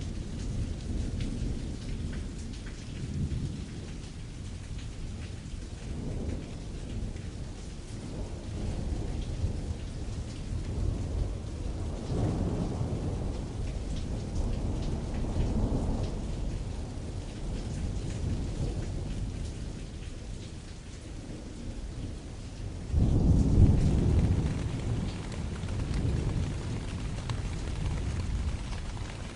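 Rain falling steadily on a canvas tent, with thunder rolling underneath in several slow low swells; the loudest rumble comes in suddenly about three-quarters of the way through.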